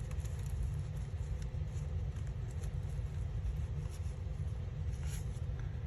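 A few faint light taps and rustles of craft supplies being handled, over a steady low hum.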